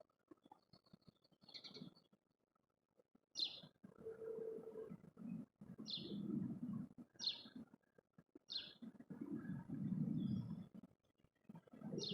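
Small songbird giving single short, sharp chirps, about six of them spaced a second or so apart, over a low rumbling background noise.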